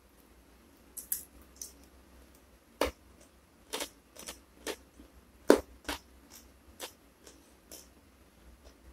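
Close-miked eating sounds: a person chewing food with irregular sharp crunches and wet mouth clicks, the loudest about five and a half seconds in.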